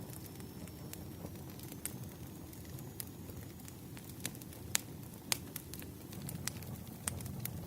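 Wood fire crackling: a steady low rumble of burning logs with irregular sharp pops, two of them louder a little past the middle.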